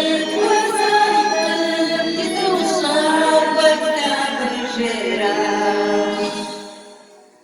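A small group of women singing a cappella in harmony, a slow melody with long held notes, fading out near the end.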